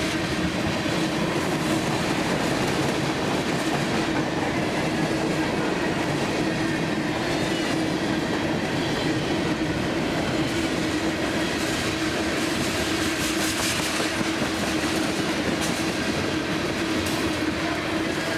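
CSX freight train rolling past at close range: a steady clatter of steel wheels over the rail joints with a constant drone underneath.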